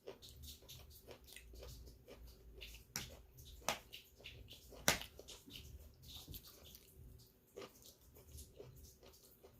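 Close-miked eating: chewing and lip smacking with a rapid run of small wet clicks, and a few sharper clicks, the loudest about five seconds in.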